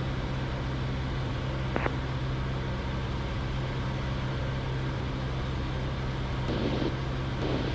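Cessna 172's engine running steadily in the cockpit on approach, a constant low drone. A short click comes about two seconds in.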